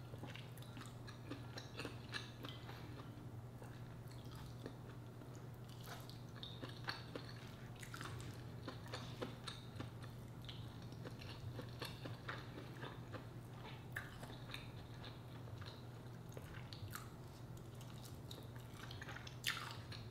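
Faint, close-miked chewing and wet mouth sounds of a person eating seafood and rice by hand, with many small scattered clicks and smacks over a steady low hum.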